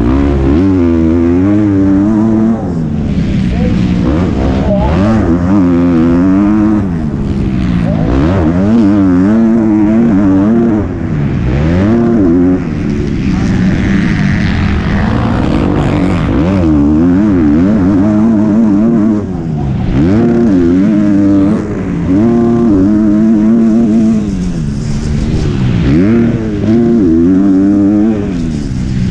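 MX2 motocross bike engine heard onboard, revving up and dropping back again and again as it is ridden hard around the track, with a few brief throttle-offs.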